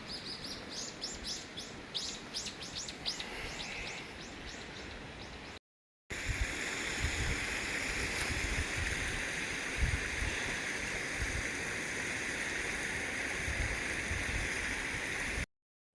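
A small bird singing a rapid series of high chirps. After a short cut, a steady rushing hiss takes over, with wind buffeting the microphone in low gusts.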